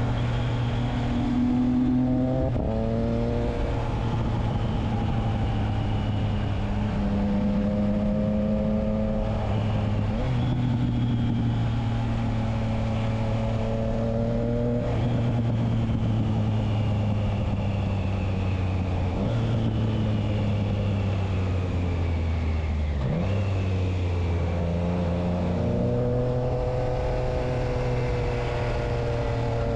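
Triumph Trident 660's inline three-cylinder engine running through a Spark exhaust with the dB killer fitted. The engine note holds steady for a few seconds at a time, then steps up or down, with a short sharp drop about 23 seconds in.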